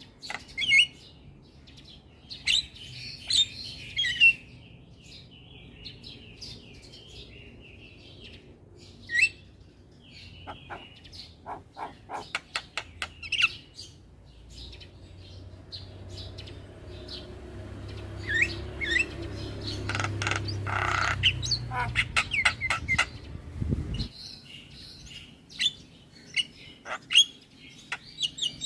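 Javan myna calls: an irregular run of short chirps, whistles, rattling clicks and harsh squawks. A low rumble builds in the background through the middle and cuts off suddenly about two-thirds of the way through.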